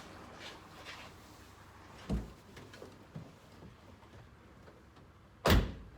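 A car door shutting with a loud, sharp thump near the end, after a duller low knock about two seconds in and a few faint knocks. The engine is not yet running.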